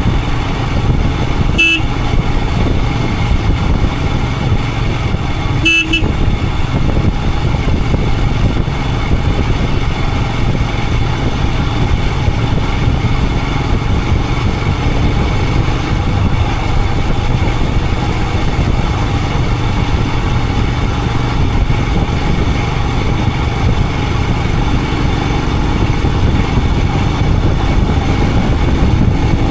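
Royal Enfield Himalayan 411's single-cylinder engine running steadily as the motorcycle rides along, with road noise underneath. Two short horn toots come about two and six seconds in.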